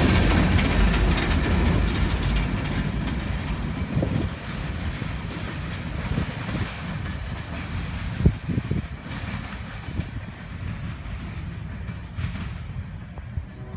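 Empty coal train's cars rolling over the rails with a clickety-clack, the rumble fading steadily as the train moves away, with a few sharp clanks along the way.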